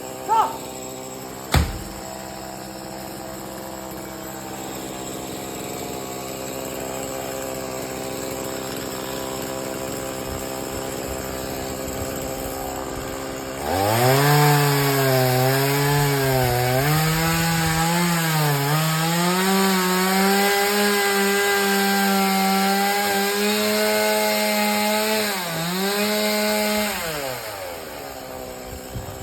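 Chainsaw idling, with a sharp knock about a second and a half in. About halfway through it is revved up loud and held at high speed, its pitch sagging several times as the chain bites into wood. It drops back to idle a couple of seconds before the end.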